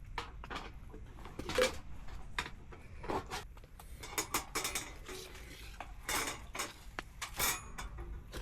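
Thin stainless-steel fire-pit parts clinking and clattering as they are handled, a string of irregular metallic knocks with short ringing tails.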